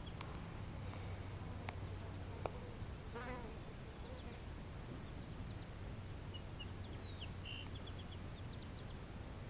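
Quiet outdoor background: a steady low hum, with scattered short high bird chirps, most of them in the second half.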